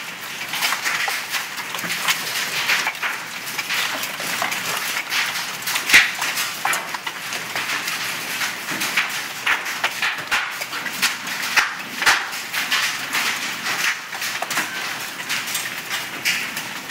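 Large hailstones, bigger than quarters and nearing golf ball size, pelting down in a dense, irregular clatter of hits, with one loud strike about six seconds in.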